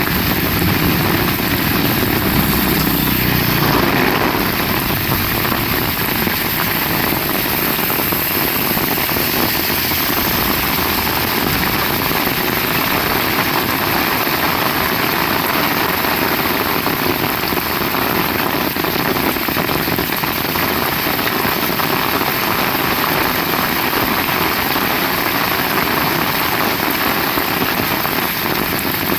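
Heavy rain falling steadily. A low rumble underneath fades out about four seconds in.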